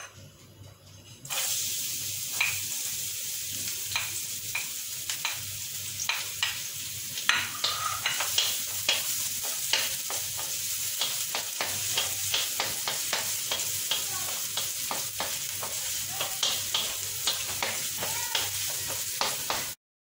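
Chopped garlic frying and sizzling in a wok, starting about a second in, while a wooden spatula stirs it, scraping and clicking against the pan again and again. The sizzle cuts off abruptly just before the end.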